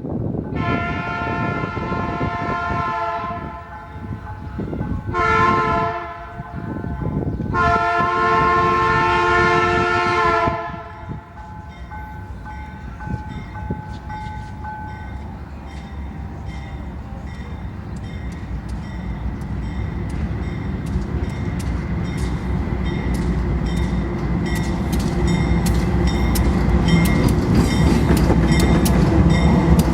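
Freight train locomotive horn sounding three times (long, short, long), then the train's engine running and its wheels clicking over rail joints, growing louder as it approaches, with the clicks coming faster near the end.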